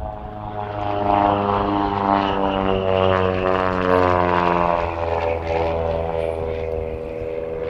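Decathlon aerobatic plane's propeller engine droning as it makes a pass. It swells about a second in, then eases off with its pitch sliding slightly lower as it moves away.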